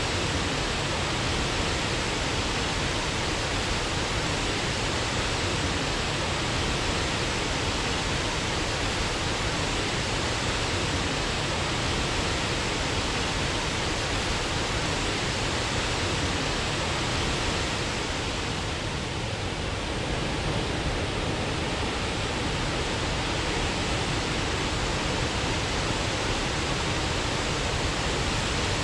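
Waterfall rushing in a steady, dense roar of falling water, easing slightly softer for a few seconds about two-thirds of the way through.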